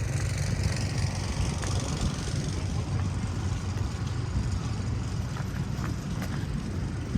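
A motor vehicle engine idling with a steady low hum, over a constant hiss of street noise.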